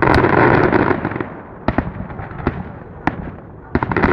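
Fireworks going off: a loud burst with dense crackling at the start, then a few single bangs, and another loud crackling burst near the end.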